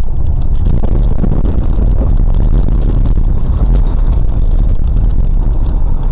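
Loud, steady low rumble of a moving vehicle, with no clear engine pitch.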